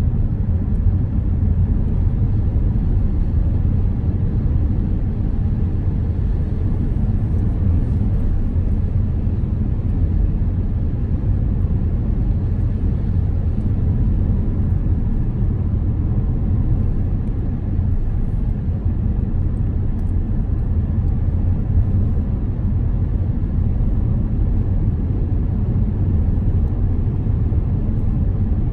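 A car driving on the road: a steady low rumble of tyres and engine.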